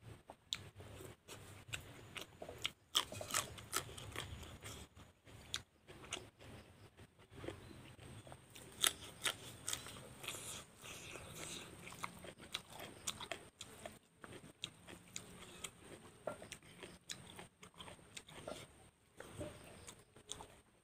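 A person chewing and biting a vegetable meal close to a clip-on microphone: irregular wet crunches and sharp little clicks, many per second, coming and going.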